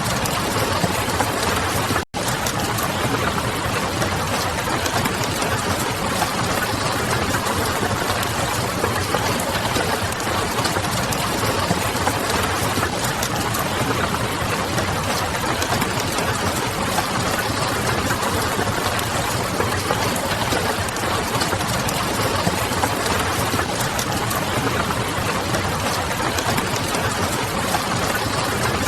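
Steady rain hiss mixed with the light crackle of a wood fire, an even unbroken wash of noise with a low hum underneath. It cuts out for an instant about two seconds in.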